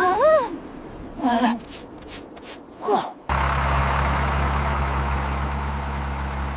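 A few short vocal sounds, then about three seconds in a vehicle engine starts abruptly and runs with a steady low hum, as a snow-clearing vehicle sets off.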